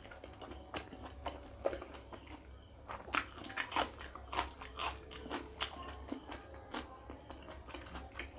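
Close-miked eating sounds: soft chewing, then crisp crunching bites into a raw green chilli about three seconds in, followed by more chewing.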